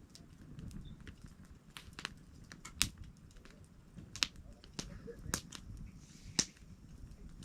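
Wood campfire crackling, with about half a dozen sharp pops scattered through it, the loudest a little before the middle and near the end.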